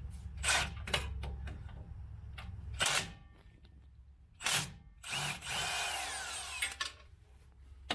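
A few short metal clicks, then about five seconds in a cordless power tool runs for under two seconds, its whine falling in pitch as it spins out a cable bracket bolt.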